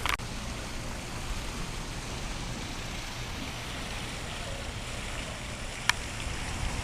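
Steady rushing and splashing of water from a backyard pool's waterfall, with a single sharp click about six seconds in.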